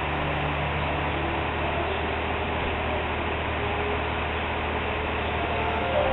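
A steady low hum under an even hiss, unchanging throughout, like a running machine or distant traffic.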